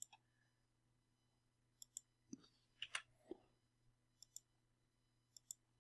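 Faint computer mouse clicks in near silence, several of them in quick pairs like double-clicks.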